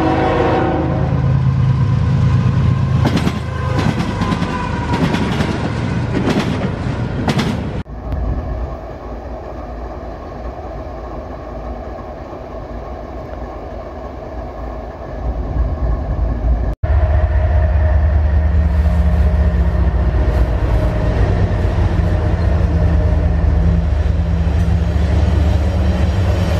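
Freight trains passing in three edited cuts. A diesel locomotive horn sounds as a train approaches and fades out about a second in. Then locomotives and cars roll by with wheel and rail noise, and after a cut near the end diesel locomotives pass with a steady low engine drone.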